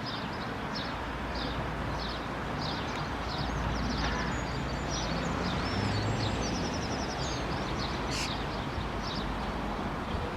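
Birds chirping with short high calls, several a second, and a quick trill about seven seconds in, over a low rumble of traffic that swells in the middle.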